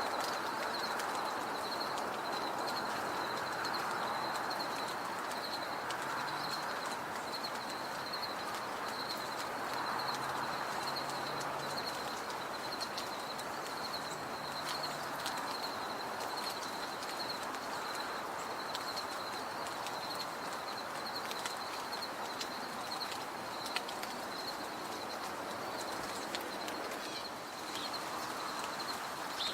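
Outdoor ambience: a high, evenly pulsing chirp repeating about twice a second throughout, over a steady background hiss, with scattered short clicks.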